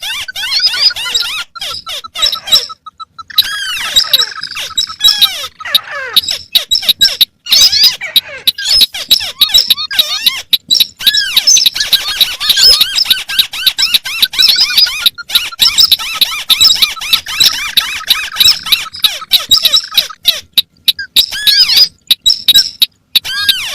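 Recorded calls of several crake species, white-browed crake among them, layered together: a dense, rapid, continuous chatter of squeaky, arching notes with a few brief breaks.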